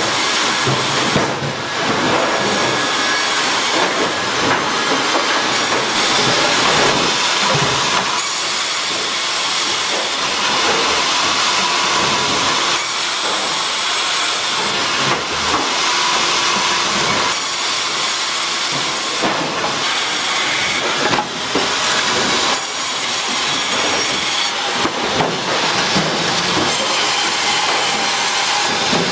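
Loud, dense noise of sawmill machinery at work, its character shifting every couple of seconds.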